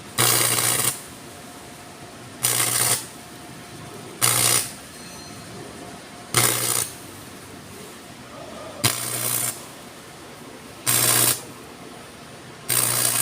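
Repaired Yamato arc welding machine under test: seven short welding arcs, each a crackling sizzle with the machine's transformer humming under load, struck about every two seconds. The arc striking and holding shows the welder is working again after the repair.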